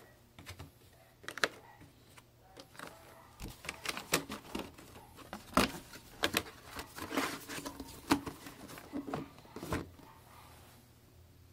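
Irregular clicks, taps and brief rustles of small objects and packaging being handled by hand, busiest in the middle and tailing off near the end.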